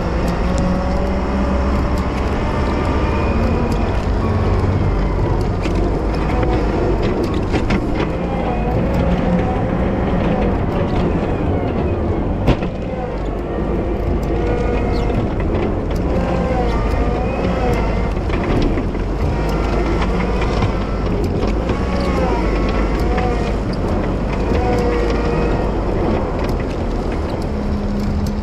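Wheel loader's diesel engine running under load while plowing snow, a steady low rumble whose pitch wavers up and down. There is a single sharp knock about halfway through.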